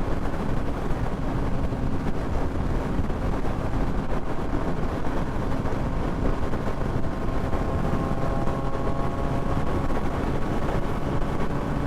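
Wind rushing over a helmet microphone while riding a Yamaha MT-09 motorcycle at a steady speed, with the engine's steady note underneath.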